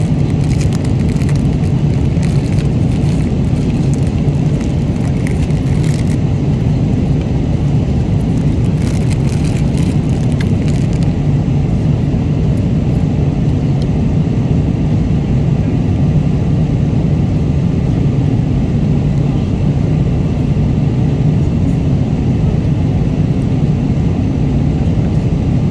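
Airliner cabin noise in flight: a loud, steady, low rumble and hiss from the engines and the airflow. Light clicks and rustles come and go during the first ten seconds or so.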